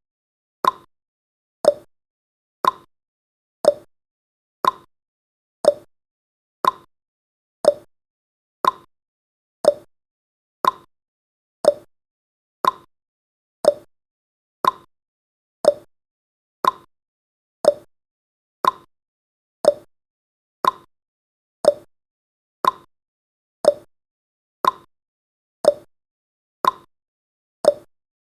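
Clock-style ticking sound effect of a countdown timer, one short tick every second, alternating between a higher and a lower tick like a tick-tock.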